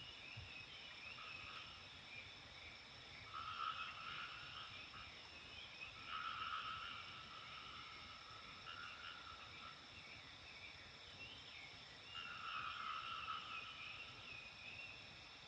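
Frogs croaking in repeated bouts of about a second each, four main bursts, with a rapid higher chattering between them over a steady faint high-pitched hum.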